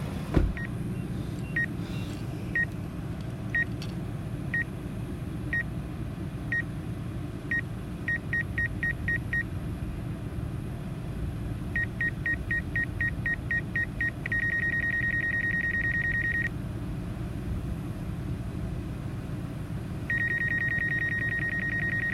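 Obstacle-proximity warning beeps from the DJI Mavic 2 Zoom's controller app: a single high beep about once a second, quickening to rapid beeping, then a steady held tone for a couple of seconds and again near the end, warning that the drone is very close to an obstacle. A steady low rumble of the truck runs underneath.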